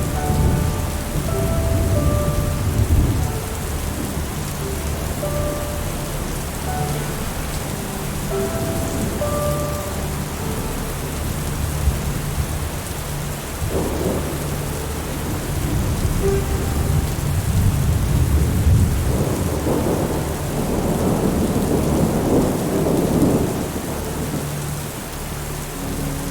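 Steady rain with low rolling thunder rumbling throughout, swelling near the start and again about two-thirds through. Soft held music notes drift in and out over it.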